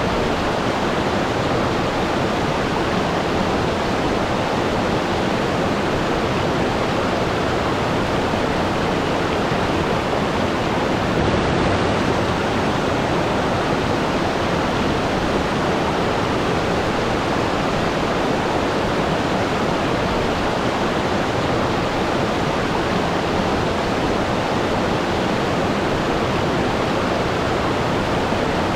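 Waterfall: water falling and rushing in a steady, even roar of noise with no breaks or changes.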